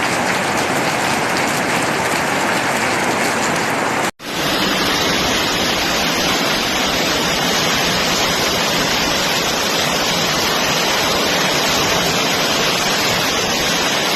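Heavy rain falling, a dense steady hiss of water. It breaks off for an instant about four seconds in, then carries on unchanged.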